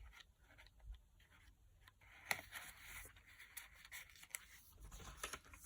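Faint paper handling: a journal card and paper pages rustling and scraping as they are handled, with a few light clicks and one sharper tick about two seconds in.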